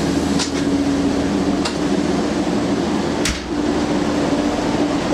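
Inside a Class 144 Pacer diesel railcar under way: a steady drone from the underfloor diesel engine and transmission, broken by three sharp knocks or clanks from the train, the third and loudest about three seconds in.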